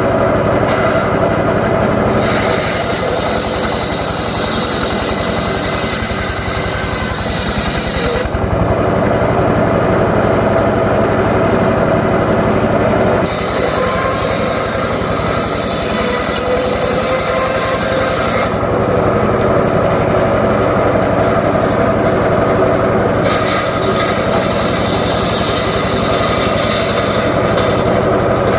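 Homemade circular sawmill running steadily, its blade ripping johar wood in three passes of about five or six seconds each. During each cut a harsher, higher sawing sound comes in on top of the running machine and then stops sharply as the blade clears the wood.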